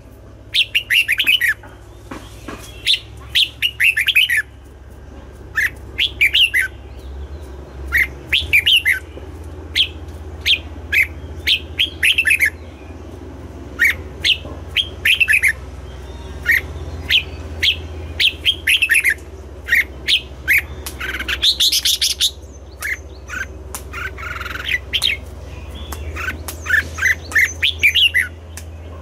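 Red-whiskered bulbul singing: short bursts of quick, bright whistled notes, repeated every second or two with brief pauses between phrases.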